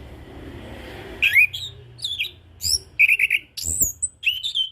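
Chestnut-capped thrush (anis kembang) singing a rapid run of varied whistled notes, sweeping slides and short trills, starting about a second in. A low thump comes partway through.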